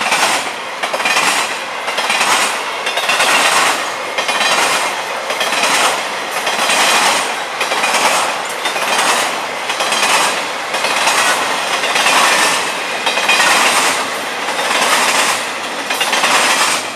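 Florida East Coast freight train cars rolling past, wheels clacking over the rail joints. The noise swells and fades in a steady rhythm, about one swell every 1.2 seconds.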